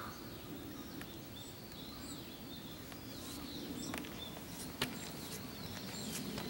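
Small birds chirping, short rising and falling calls repeated throughout, over a steady low background hum, with a few sharp clicks.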